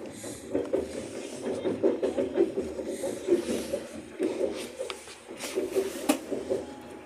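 Interior running noise of a moving electric commuter train, a steady rumbling rush with a couple of sharp clicks in the second half.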